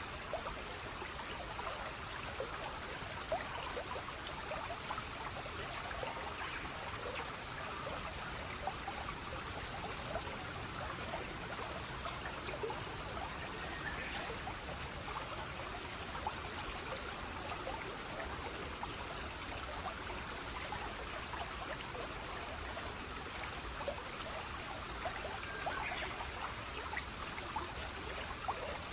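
Running water trickling steadily, like a small stream, with scattered little drips and splashes through an even flow.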